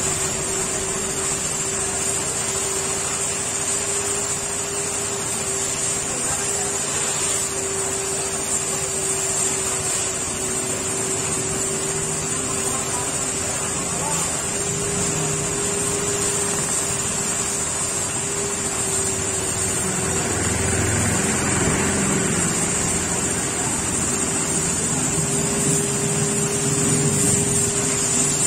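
High-pressure car-wash washer running steadily: a constant motor hum under an even hiss of spray, getting a little louder about two-thirds of the way through.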